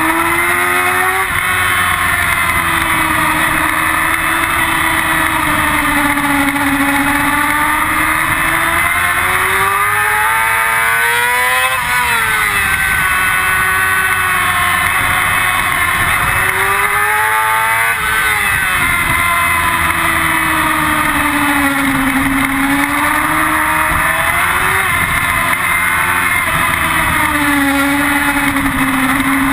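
Yamaha R6's inline-four engine running hard on track, heard from an onboard camera. Its pitch climbs under acceleration and falls away with gear changes and braking, swooping up and down sharply twice around the middle, over a steady rush of wind noise.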